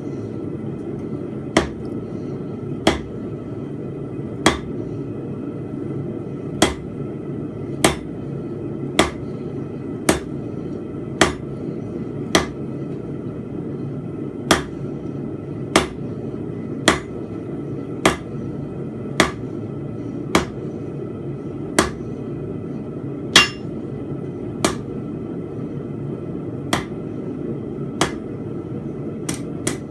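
Hand hammer striking small steel bar stock on an anvil, about one blow a second, forging fence pegs. The blows are short, with little ring, from an anvil damped by magnets underneath. A steady rushing noise runs underneath.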